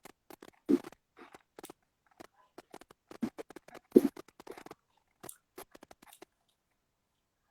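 Irregular short clicks, taps and soft thumps with no steady rhythm, the loudest about four seconds in, fading out after about six seconds.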